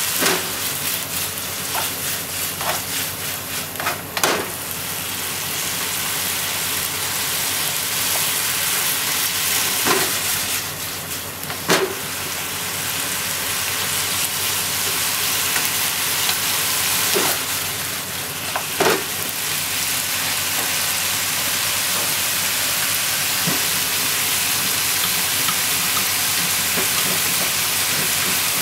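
Bean sprouts and shimeji mushrooms sizzling steadily as they are stir-fried in a frying pan, with occasional sharp knocks of the wooden chopsticks against the pan as the food is tossed.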